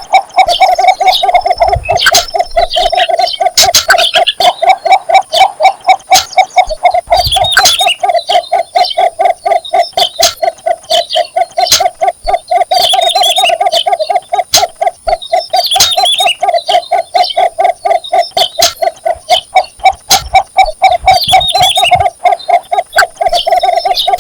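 Cinnamon bittern calling: a long, unbroken series of quick, low, evenly repeated notes. Short higher chirps from other birds come in now and then over it.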